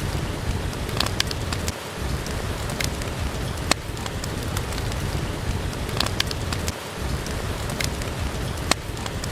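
Steady rain falling, with a wood fire crackling: sharp single pops every second or two over the even patter.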